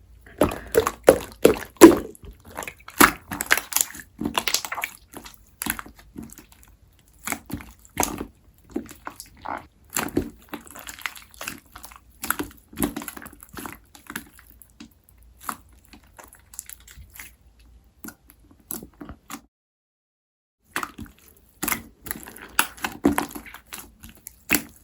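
Firm, jelly-like clear slime being squeezed and poked by hand: irregular sticky squishes with sharp pops and clicks, stopping briefly for about a second near the end.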